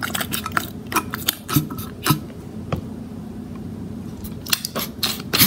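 Irregular clicks and light taps from handling a soap bottle and a container while soap is added, some in quick clusters, the busiest near the start and the end.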